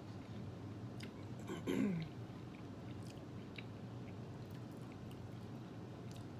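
Close-up chewing and lip-smacking on boiled meat, with faint wet clicks throughout. About two seconds in comes a short voiced sound that falls quickly in pitch, the loudest moment.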